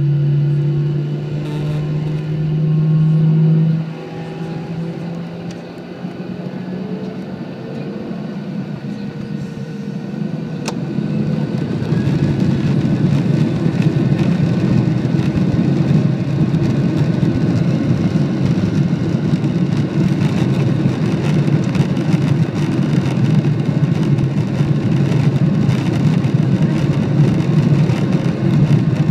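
Jet airliner engines heard from inside the cabin, spooling up to takeoff power. A rising whine over the first several seconds gives way to a loud, steady roar from about twelve seconds in as the plane accelerates down the runway.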